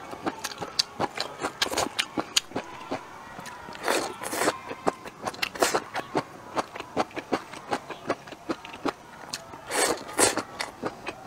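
Close-miked chewing and crunching of stir-fried Hunan glutinous-rice bamboo shoots with pork, many short wet clicks, with a longer slurp of strips about four seconds in and again near the end.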